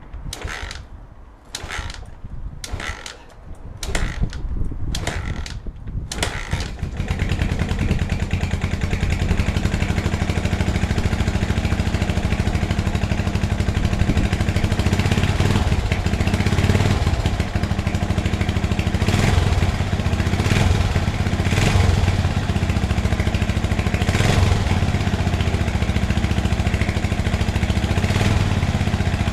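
The 1980 Honda XL250S's single-cylinder four-stroke engine, with a freshly fitted timing chain and tensioner, fires in a handful of separate coughs about a second apart. It catches about six seconds in and runs steadily, swelling now and then with small blips of throttle.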